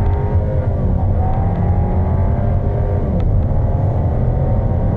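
A 2016 Audi A4's turbocharged four-cylinder petrol engine under full-throttle acceleration, heard inside the cabin. Its note climbs steadily and drops in pitch at each S tronic upshift, about a second in and again a little after three seconds, over steady tyre and road rumble.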